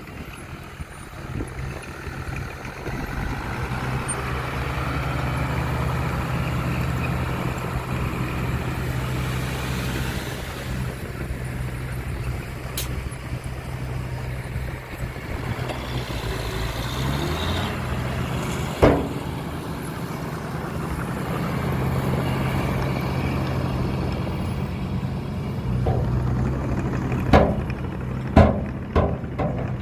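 Heavy diesel engine of construction machinery running steadily, its pitch shifting about halfway through. One sharp clank comes a few seconds later, and several more come near the end.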